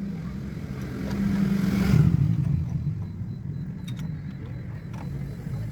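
Car engine running at idle, revved once with a brief swell about two seconds in before settling back to idle.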